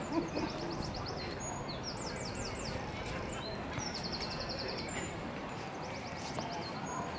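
Songbird singing quick high trills of rapidly repeated notes, three phrases about two seconds apart, with a few short single whistles between them, over a steady outdoor background hiss.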